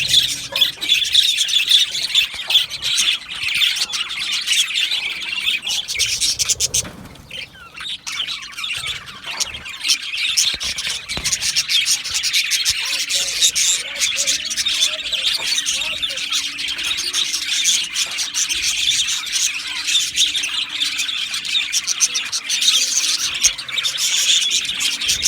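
A flock of budgerigars chattering continuously, many overlapping chirps, warbles and squawks at once, with a brief lull about seven seconds in.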